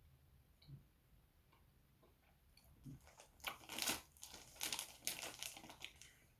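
Eating a giant Hershey's milk chocolate with almonds bar: a few faint clicks, then a run of crunchy, crinkly bursts from about three seconds in.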